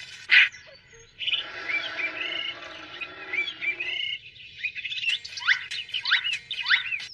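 Cartoon sound effects: a short sharp burst, then a busy chirping sound, then a quick run of rising, squeaky bird-like chirps.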